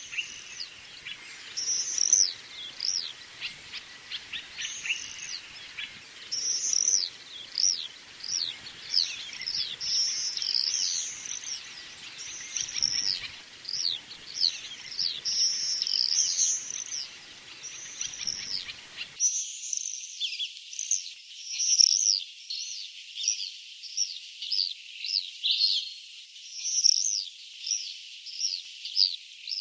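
Common swifts screaming: a steady stream of shrill, high calls, many falling in pitch, often overlapping. About two-thirds of the way through, the low background hiss drops away and only the calls remain.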